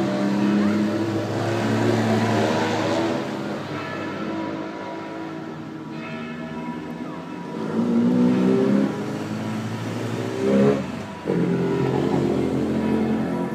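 Engines of vintage racing cars running and revving, their pitch rising and falling, with a sharp rev about ten seconds in.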